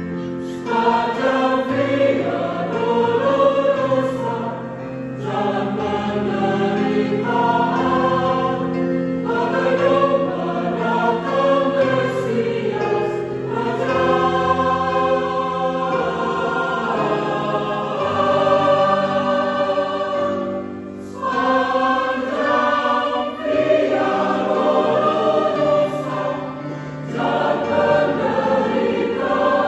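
Church choir singing, phrase after phrase with short pauses between.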